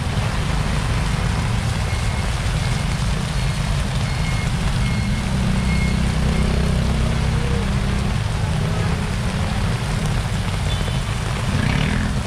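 Heavy typhoon rain pouring onto a flooded street, under the low rumble of motorcycle engines moving through the water. A faint short electronic beep repeats about once a second for a few seconds, starting about two seconds in.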